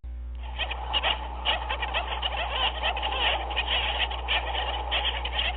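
Penguin colony calling: a dense chorus of many overlapping squawks and brays without a break, over a steady low hum.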